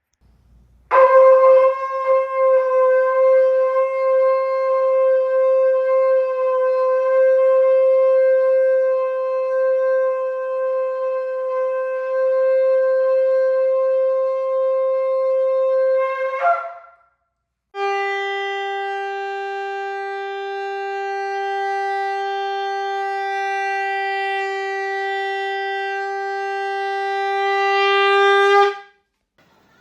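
Two long, steady shofar blasts, each held for more than ten seconds. The second is pitched lower than the first.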